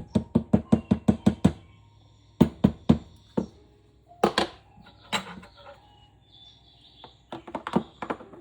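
A quick run of sharp knocks, about six a second, then several more scattered groups of knocks.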